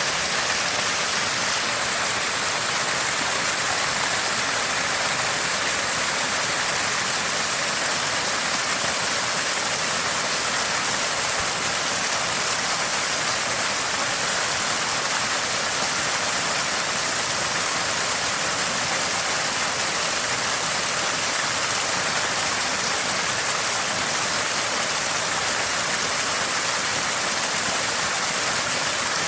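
Water from a small spring gushing and splashing, a steady, even bubbling that holds without change.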